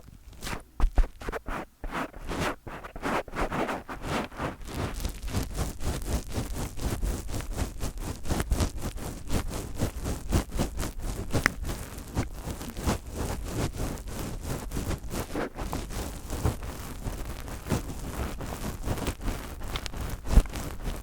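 Fingers rubbing, scratching and tapping directly on a microphone, close and loud in the recording: a few separate strokes at first, then fast continuous scratchy rubbing with a low rumble, and one sharper knock near the end.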